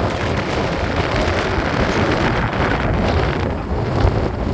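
Strong wind buffeting the microphone: a loud, steady rush with heavy low buffeting.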